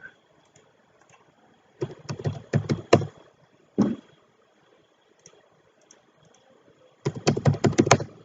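Computer keyboard keys and mouse clicking in quick bursts: a cluster of taps about two seconds in, a single one near four seconds, and a fast run of taps near the end.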